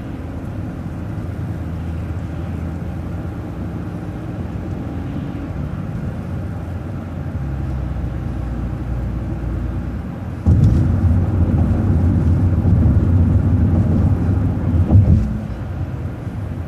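Vehicle engine and road noise heard from inside a moving vehicle: a steady low hum that suddenly grows louder about ten seconds in, holds for about five seconds, then drops back.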